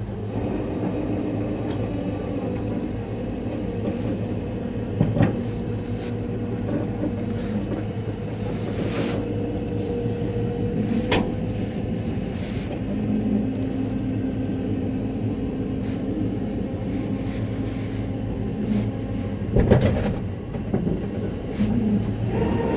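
Tow truck engine running steadily while it pulls a hung-up car free, with a steady whine for several seconds and a few sharp metal clanks.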